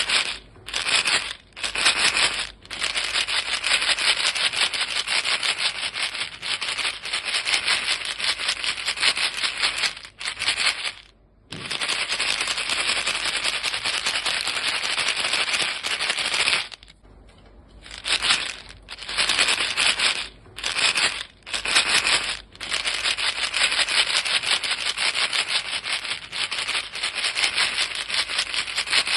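A box of chewing gum pellets being shaken, the pellets rattling against the box in fast, dense clicks. The shaking comes in long bouts with short pauses, the longest breaks about eleven and seventeen seconds in.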